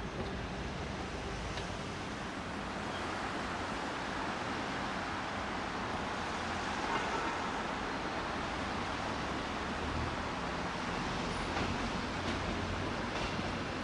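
Steady rumble of a railway station's track field, with an electric train rolling slowly across the tracks amid city traffic noise.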